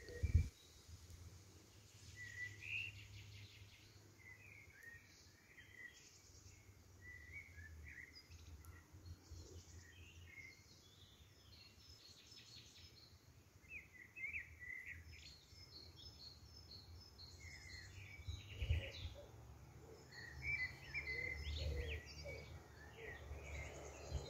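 Songbirds chirping and singing, many short calls scattered throughout, over a low rumble that swells a few times.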